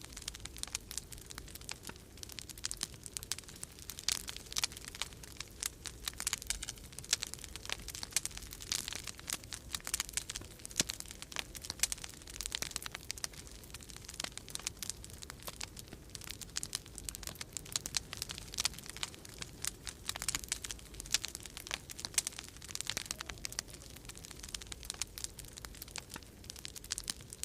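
Wood fire crackling in a fireplace: a dense, uneven run of small pops and snaps over a low steady rumble.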